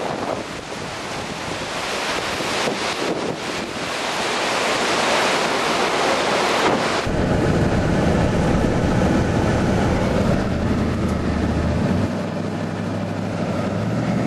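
Strong storm wind buffeting the microphone. About seven seconds in it gives way abruptly to a vehicle's engine humming, its pitch shifting a few times.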